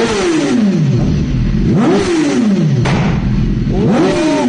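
Motorcycle engine revved in three sharp throttle blips about two seconds apart, each rising quickly in pitch and then dying away more slowly.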